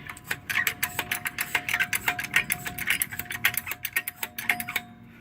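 Rapid, irregular metallic clicking and rattling from a hydraulic floor jack being worked, over a faint steady tone. The jack is not lifting because its release valve is not turned fully closed.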